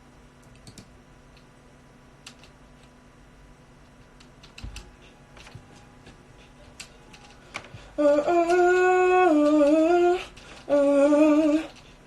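Scattered faint clicks over quiet room tone, then a voice humming two wordless phrases, the first about two seconds long and the second about one, its pitch stepping up and down. The hummed notes are a check of the pitch after the key has been raised.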